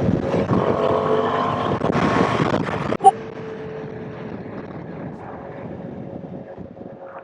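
KTM 390 Adventure's single-cylinder engine running at a steady cruise with wind on the microphone. About three seconds in, a sudden click, and the sound drops to a quieter steady engine note.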